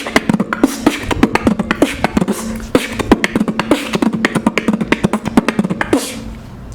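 Human beatboxing: a fast mouth-made drum pattern of rapid kick and snare-like strokes over a low hum, stopping abruptly near the end.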